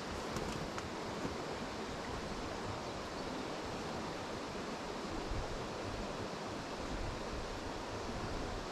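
Wind blowing steadily outdoors, with a fluctuating low rumble on the microphone.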